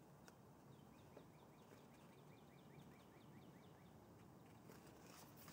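Near silence: room tone with a faint bird trill, a fast run of short high chirps from about a second in until near the end.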